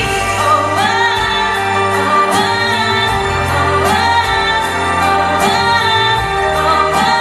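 A woman singing a song over musical accompaniment, with long held notes that slide upward into each new phrase.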